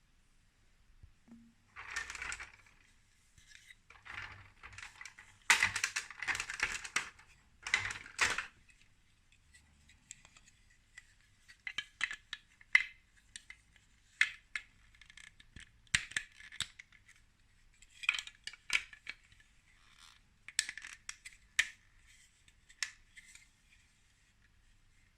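Small plastic toy building pieces clattering as they are handled, then a run of sharp clicks and taps as parts knock and click together.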